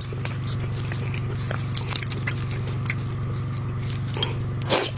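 Close-miked mukbang eating sounds: a person biting and chewing seafood, with many short wet smacks and clicks and a louder bite near the end. A steady low hum runs underneath.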